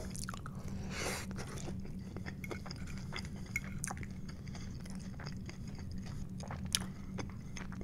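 Close-miked chewing of cheese-loaded tater tots, with many small wet mouth clicks and a metal fork now and then clinking against the plate, over a faint steady low hum.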